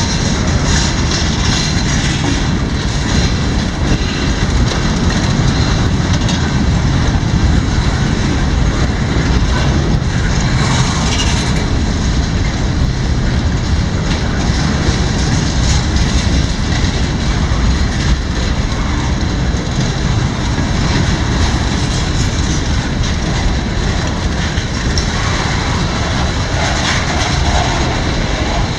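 CSX autorack freight train rolling past, a steady loud rumble of wheels on rail.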